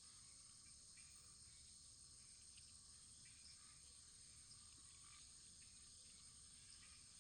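Faint wood fire in a fireplace: scattered soft crackles over a steady high hiss.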